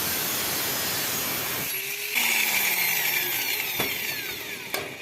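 Power tool running on construction work with a dense grinding noise; from about two seconds in a whine falls steadily in pitch as the tool slows.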